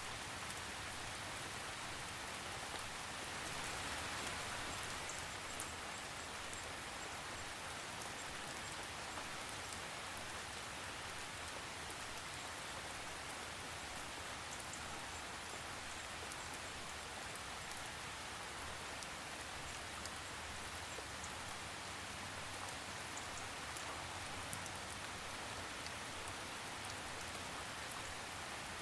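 Steady rain falling, an even hiss of drops with scattered small droplet ticks and no thunder.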